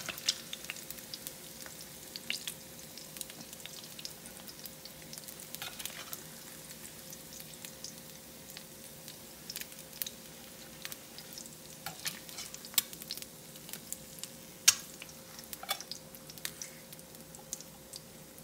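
Hot oil sizzling and crackling in a stainless steel frying pan, with scattered sharp pops and clicks as fried eggs are lifted out with a metal spatula, and a faint steady hum underneath.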